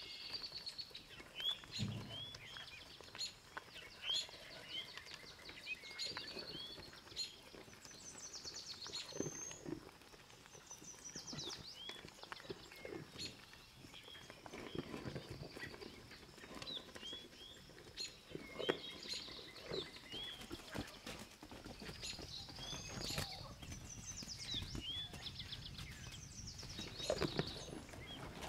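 Farm ambience: small birds chirping and twittering over and over, with scattered soft knocks and rustles, one sharper knock about two-thirds of the way through.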